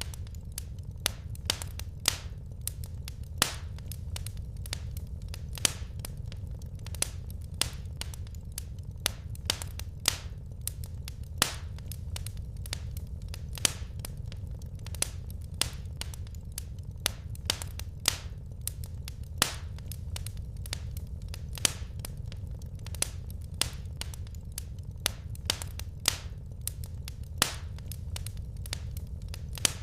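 Wood fire crackling in a fireplace: irregular sharp pops and snaps, some much louder than others, over a steady low rumble of burning.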